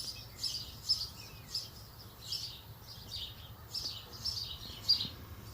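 A bird chirping over and over, a short high call about twice a second, over a faint low hum.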